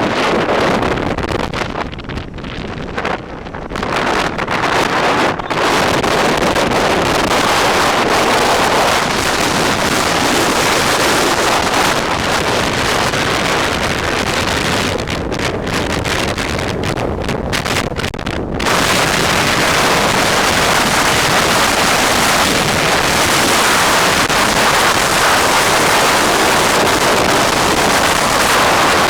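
Wind buffeting the microphone: a loud, steady rushing noise that eases briefly twice before coming back full.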